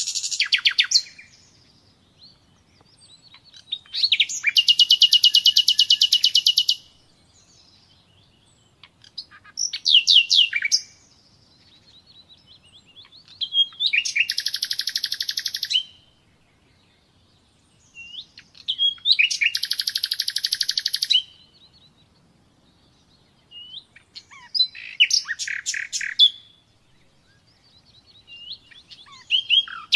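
Common nightingale singing in separate phrases of rapid repeated notes, each one to three seconds long, with short pauses between them.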